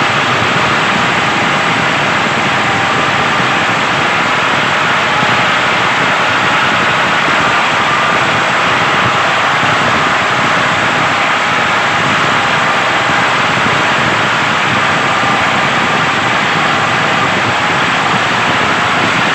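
Small motor of a DIY model tractor running steadily: a continuous, unchanging whir with a faint thin whine in it.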